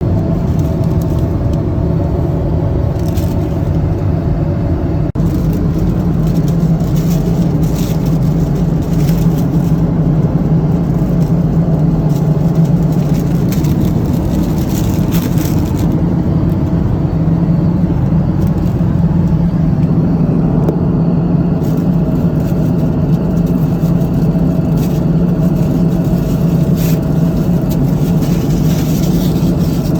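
Steady drone of an airliner's cabin in flight: constant engine and airflow noise with a low hum, unchanging throughout, with a few faint rustles.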